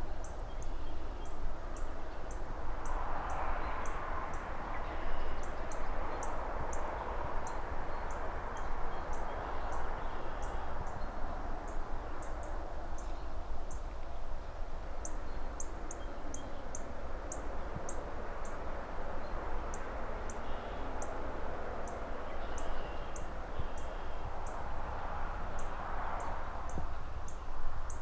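Steady rush and low hum of distant city traffic that swells twice as vehicles pass, with a bird's short high chirps repeating in runs, two to three a second.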